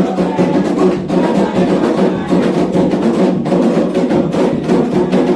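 Candomblé atabaque hand drums and an iron bell playing a toque for the orixás, with a quick, steady beat of strokes.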